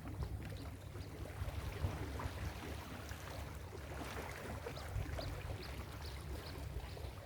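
Ocean surf washing on a beach: a steady rush of water over a low rumble, with scattered small ticks of fizzing foam and spray.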